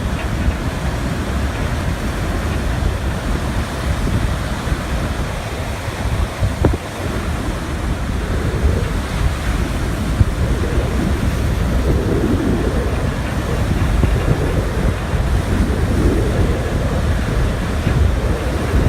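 Ocean surf washing onto the shore, heard as a continuous noise that swells and eases, with strong wind buffeting the microphone and adding a deep rumble.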